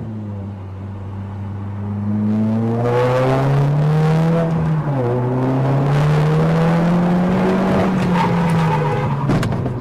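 Car engine accelerating, its pitch climbing slowly, dropping briefly about five seconds in as at a gear change, then climbing again. A few sharp knocks near the end.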